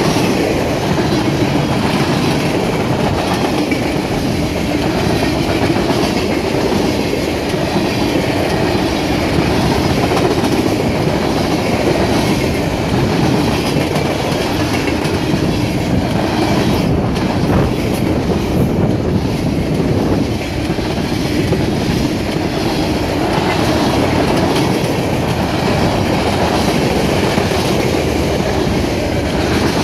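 Freight cars of a CSX mixed freight train rolling past at close range: covered hoppers, flatcars and boxcars, their steel wheels on the rails making a loud, steady noise.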